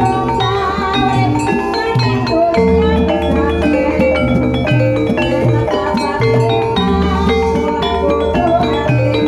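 Javanese gamelan-style music accompanying an ebeg dance: struck keyed percussion playing interlocking tones over drums and a steady low pulse, continuous and loud.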